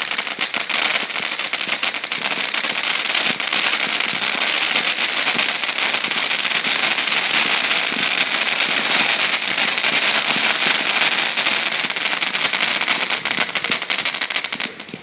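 Fireworks crackling: a loud, dense, continuous crackle of countless tiny bangs that cuts off suddenly near the end.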